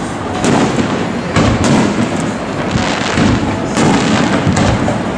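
Aerial firework shells bursting overhead in a run of sharp booms, roughly a second apart, over a continuous rumble of the display.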